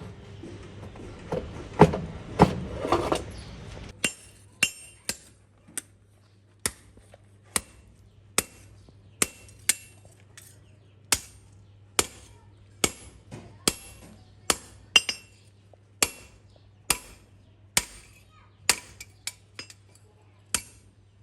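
Hammer blows on a knife blank, ringing metallically, roughly one or two a second. The first few seconds are a busier, noisier stretch with heavier strikes. After that the blows come singly over a steady low hum.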